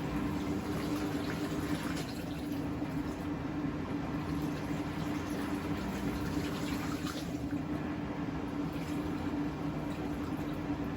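Siemens WM14T490 washing machine running with a steady hum and rumble, with water running and sloshing inside. The drum bearing is damaged.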